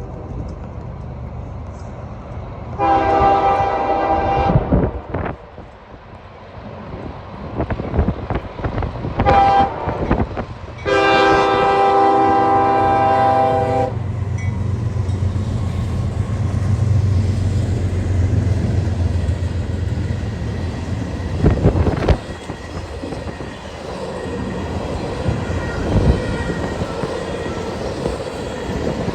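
Freight locomotive air horn sounding a long blast, a short one and a longer one over the low rumble of the diesel engines. Then the train rolls past with a steady clatter of wheels on rail and a couple of sharp clanks.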